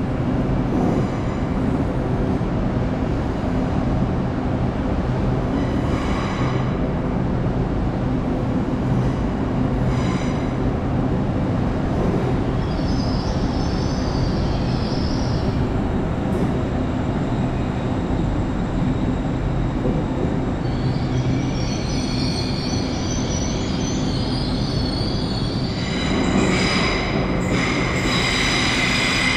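GWR Class 802 bi-mode train pulling out along the platform with a steady traction hum, its wheels squealing high on the rails in a stretch around the middle and again in the last third. Near the end a second train's sound comes in on top, louder and fuller.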